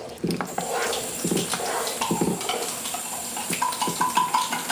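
A spatula stirring and scraping potato cubes through a frying tomato-and-spice masala in a pot, with a few low knocks against the pan and a steady sizzle of the oil.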